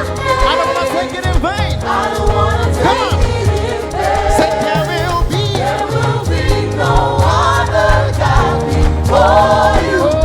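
Live gospel worship music: a choir and lead voices singing over a band with bass and drums.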